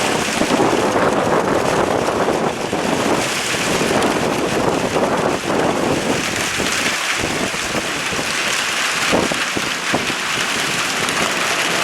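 Storm wind buffeting the microphone, with rain falling, a steady rushing noise with a few sharper gusts or knocks near the end.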